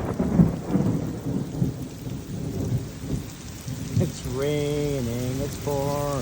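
Thunder rumbling and fading away over steady rain. Near the end come two drawn-out, low, voice-like tones, each about a second long.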